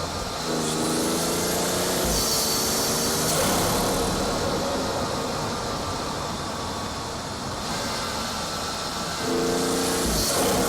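BMW 440i's B58 turbocharged inline-six heard at its front-mount intake while driving: the engine note climbs under throttle with a loud intake and turbo rush. It eases off in the middle, then climbs again near the end.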